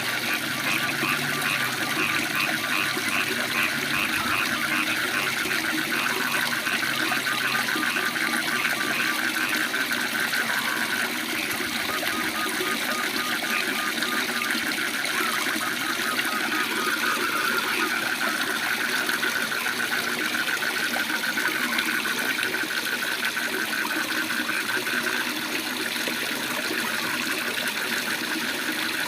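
Waterfall rushing steadily, with frogs calling over it in fast pulsing trills that come and go.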